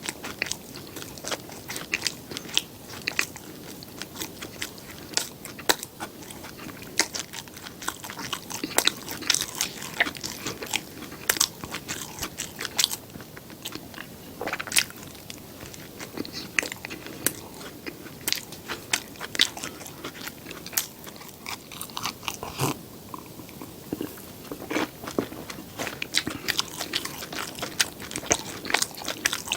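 Close-miked eating sounds: crunchy bites and chewing, with many small sharp crackles following one after another.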